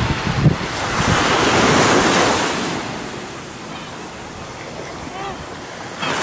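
Sea waves breaking and washing ashore, one surge swelling and then ebbing away, with wind buffeting the microphone.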